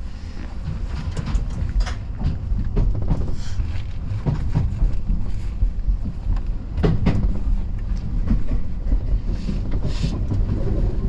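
Keio Inokashira Line electric train running along the track, heard from inside the leading car: a steady low rumble with occasional sharp clacks from the wheels and rails.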